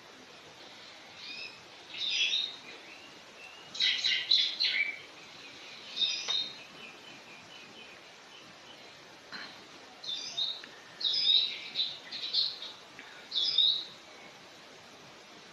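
Small birds chirping: short, high calls in scattered clusters, loudest about four seconds in and again from about ten seconds in.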